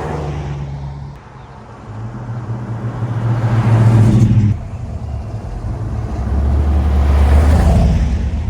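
Car engines accelerating, two in turn. The first rises in pitch and cuts off sharply about halfway through, then a deeper engine builds up near the end.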